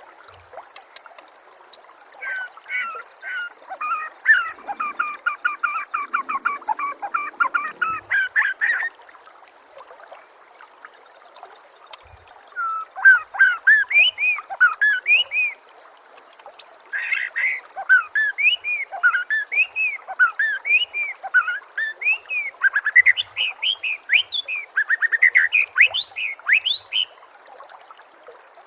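White-rumped shama (murai batu) singing: a long rapid run of repeated notes, then after a short pause bursts of varied, fast whistled phrases, over a faint steady hiss.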